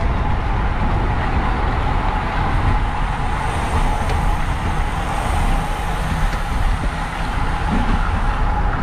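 Steady rush of wind and road noise from a road bicycle ridden at racing speed, with a faint steady hum running under it.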